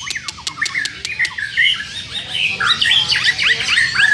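Many caged birds calling at once: overlapping short squawks and chirps that rise and fall in pitch, with a rapid run of sharp clicks in the first second.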